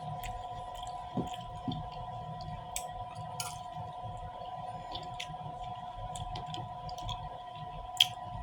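Close-up chewing of grapes: scattered wet mouth clicks and smacks, the sharpest about a second in and near the end, over a steady faint hum.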